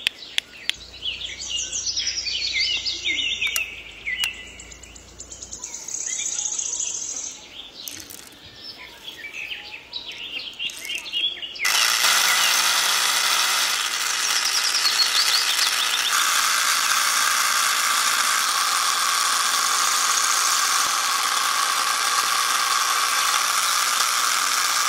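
Birds chirping and twittering. About halfway through, a much louder steady rushing hiss sets in suddenly and holds to the end, with birds still faintly heard under it.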